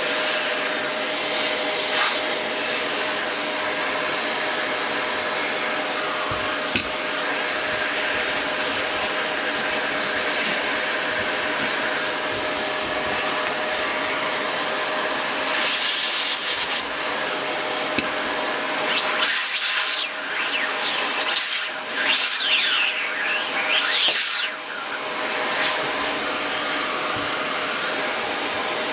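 A steady whooshing fan or blower noise with a faint steady hum. Near the end there are a few seconds of irregular rubbing and scraping.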